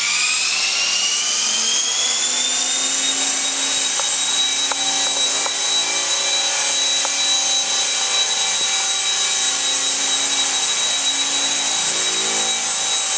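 Belt CP electric collective-pitch RC helicopter spooling up: the motor and rotor whine rises in pitch over the first few seconds, then holds a steady high whine.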